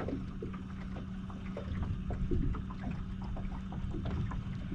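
Water lapping and small splashes around a small boat, over a steady low hum.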